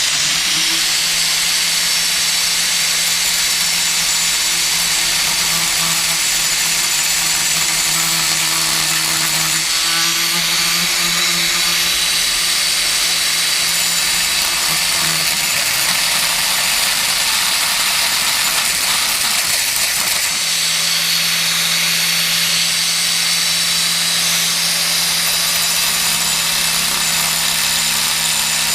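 Angle grinder with a stainless-steel cutting disc, running loud and steady as it cuts through a stainless-steel motorcycle header pipe: a motor hum under a harsh, hissing grind of the disc on metal. The hum fades for a few seconds past the middle, then comes back.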